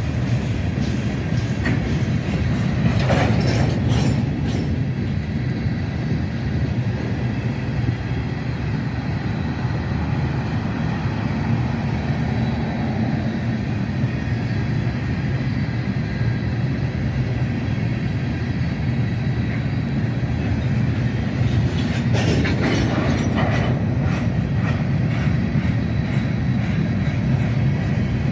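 Freight train cars rolling past on the rails with a steady, dense rumble of wheels. Brief high screeches come twice, a few seconds in and again near the end.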